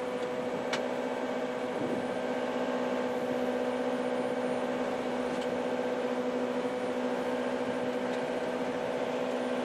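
Rally car's engine heard from inside the cabin, running flat out at a steady pitch on a gravel road, with tyre and gravel noise underneath.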